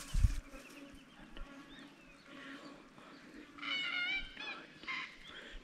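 Bird calls: a wavering pitched call about four seconds in, a shorter call near the end, and fainter calls before them, with a low thump just after the start.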